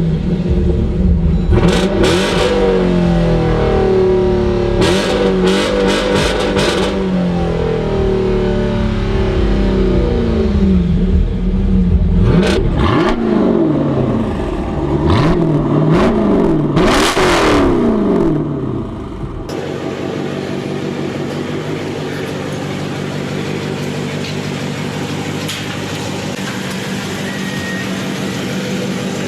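Jeep Grand Cherokee SRT's 6.4-litre HEMI V8 through a Corsa Xtreme cat-back exhaust, revving up and down repeatedly with a few short sharp crackles. About two-thirds through it gives way abruptly to a steadier, quieter engine drone.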